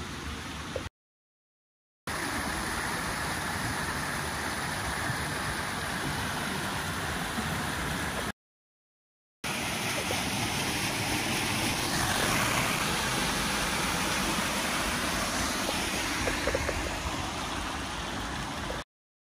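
Steady rushing noise of a train in motion, broken twice by about a second of silence.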